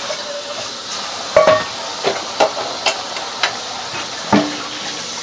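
Dishes and pans clinking and knocking in a kitchen sink under running tap water, with several sharp knocks, the loudest about a second and a half in.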